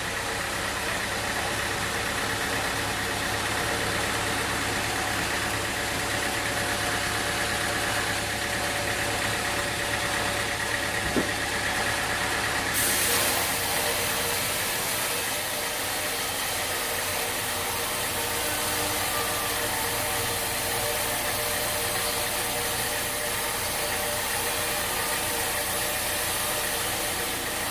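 Sawmill machinery running steadily with a constant engine-like hum and several steady tones. A single sharp knock comes about eleven seconds in, and a brighter hiss joins from about thirteen seconds on.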